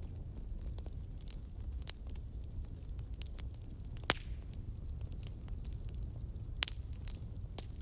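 Wood campfire burning, crackling with sharp pops at irregular moments over a steady low rumble of the flames. The loudest pops come about four seconds in and near the end.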